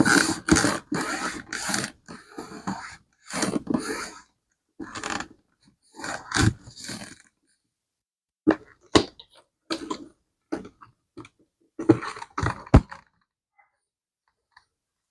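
Handling of a vintage leather bag: irregular rustling and scraping, with a few short sharp clicks from its hardware in the second half.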